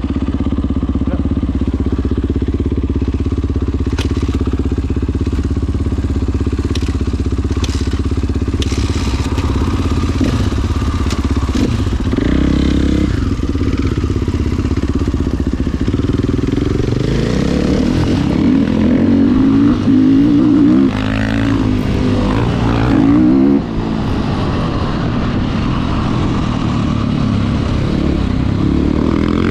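Motocross dirt bike engine running at a steady idle, then revving up and down repeatedly from about halfway through.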